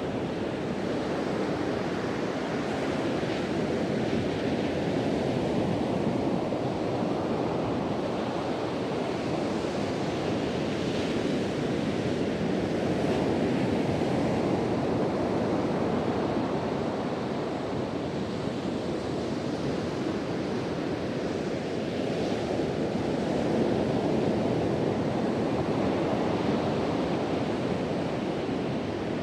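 Ocean surf breaking on a beach, with wind: a steady, dense rush that swells and eases slowly every several seconds as waves come in.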